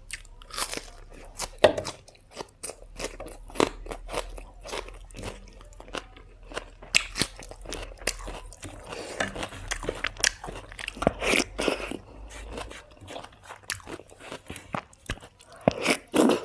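A person chewing and biting crunchy food close to the microphone: irregular, rapid crunches and mouth clicks, with a denser spell of crunching about two-thirds of the way through and again near the end.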